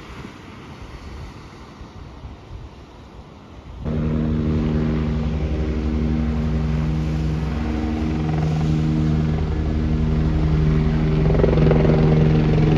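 A motor engine runs with a steady drone. It comes in abruptly about four seconds in, after a few seconds of faint noise, and grows slightly louder before cutting off suddenly at the end.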